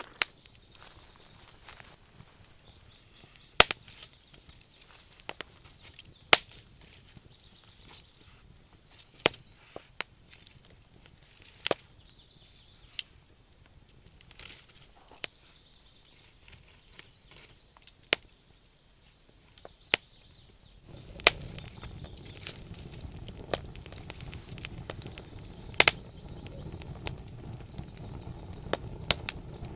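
Wood fire burning in a stove, crackling with sharp pops at irregular intervals. About 21 seconds in, a low steady rumble joins the crackling.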